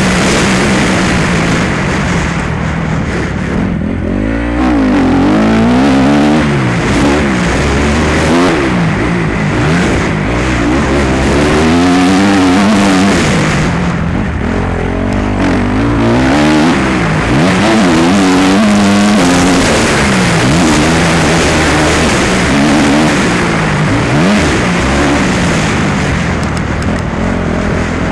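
Motocross bike engine being ridden hard around a dirt track, revving up and falling back over and over, its pitch rising and dropping every second or two.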